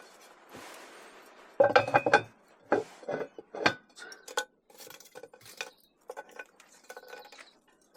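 Cast iron cookware being handled, metal pieces clanking and clinking with a ringing tone: a loud clatter about a second and a half in, then a string of separate sharper clinks that grow fainter.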